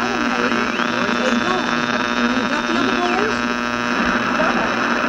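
Old radio broadcast recording with a steady electrical hum and buzz. A high whistling tone rises about a second in, holds, and falls away after about three seconds, over faint wavering sounds.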